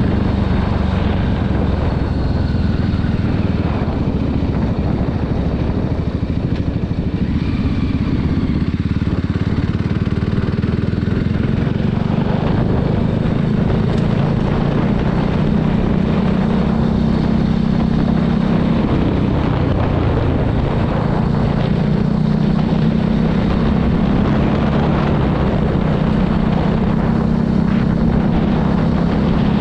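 Voge 300 motorcycle engine running under way, a steady, loud engine note that shifts slightly in pitch now and then.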